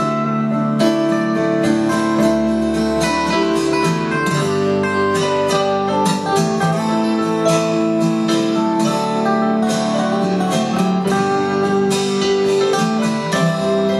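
Live folk band playing an instrumental break without singing: strummed acoustic guitar keeping a steady rhythm under held melody notes.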